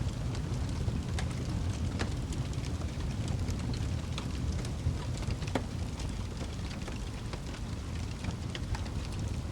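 Wood fire burning in a fireplace: a steady low rumble of flames with scattered sharp crackles and pops, one louder pop about five and a half seconds in.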